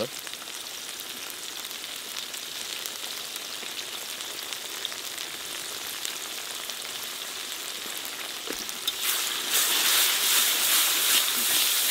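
Sliced onions and spice powder frying in hot oil in a kadai, a steady sizzle. About nine seconds in the sizzle grows louder and a metal spatula starts stirring, with scraping clicks against the pan.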